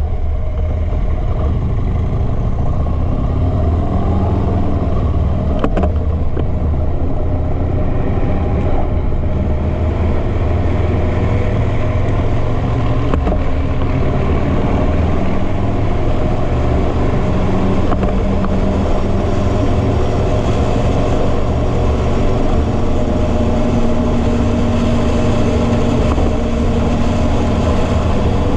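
Motorcycle engine running steadily while riding at road speed, with a continuous rush of road noise.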